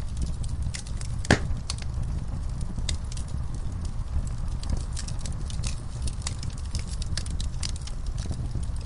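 Wood fire crackling in an outdoor fire pit: scattered small pops and snaps, with one loud pop about a second in, over a low steady rumble.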